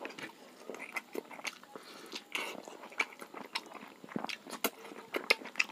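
Close-up chewing and mouth clicks of a person eating rice and pork by hand, a string of irregular short smacks and crunches.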